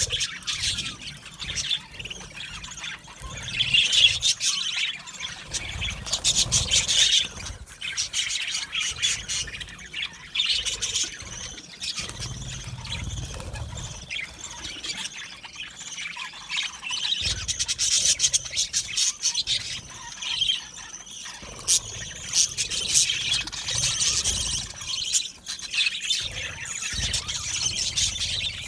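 A flock of budgerigars chattering, chirping and squawking without a break, many birds calling over one another.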